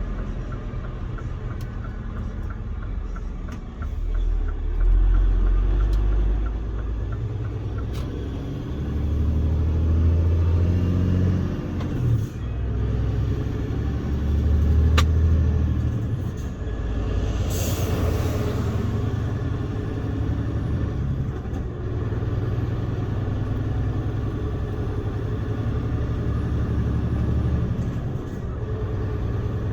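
Scania R410 truck's engine running with a deep, steady rumble that swells and eases several times as the load changes. About 18 seconds in there is a short burst of hiss.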